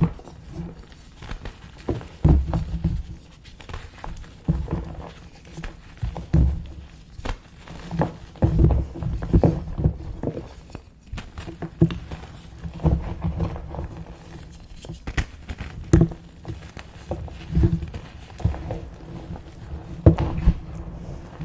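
Small gym chalk blocks being crushed and crumbled, giving irregular crisp crunches and crackles with dull thuds, several each second in places and pausing in between.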